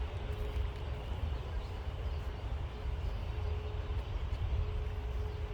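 Airport ambience of jet aircraft engines: a steady low rumble, with a faint high hum that fades in and out.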